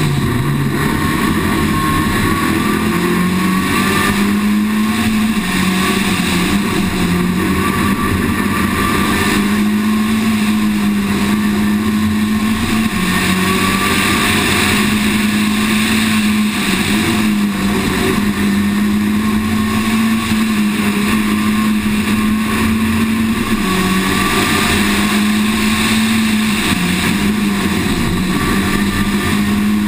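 Citroën Saxo VTS rally car's four-cylinder petrol engine running hard at high revs under full throttle, heard from on board; its pitch holds high and dips briefly every few seconds between pulls. A steady hiss of wind and road noise runs under the engine.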